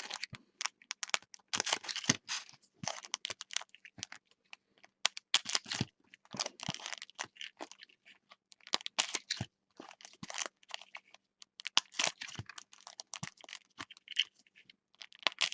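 Baseball trading cards and pack wrappers being handled: an irregular run of short rustles, scrapes and clicks as cards are flipped through and sorted.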